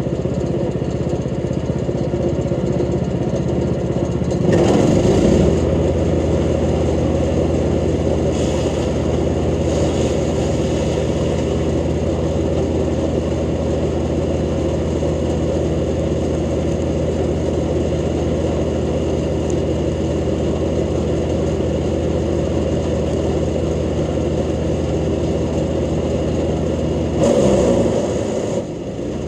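Jansen GTS-1500 wood chipper engine running steadily while chipping freshly cut mulberry branches. Its note shifts about five seconds in with a louder surge, and there is another louder surge near the end.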